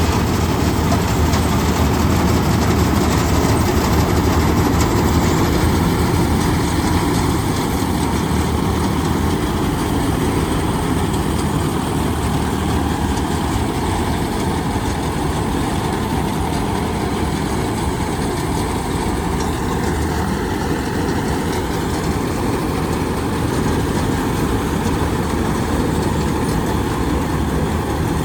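Tractor engine running steadily with a low hum and even mechanical noise.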